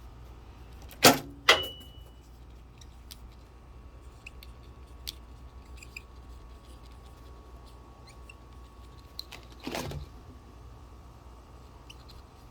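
Metal parts being handled: two sharp clinks about a second in, the second ringing briefly, then scattered small ticks and a rattle of handling near the end, over a faint steady hum.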